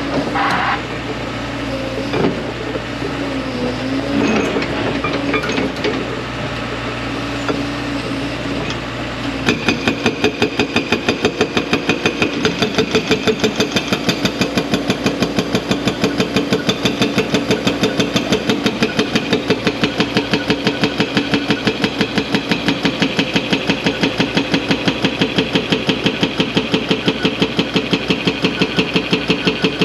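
A large excavator's diesel engine running, then, about nine seconds in, its 4,000 lb hydraulic breaker starts hammering rock in a fast, even train of blows, several a second, that carries on steadily.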